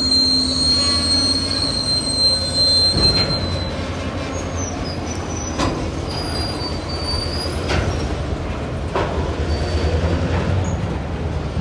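Train rolling past with a steady low rumble; a high steel wheel squeal sounds for the first few seconds, then fades, and sharp clacks of wheels over rail joints follow every second or two.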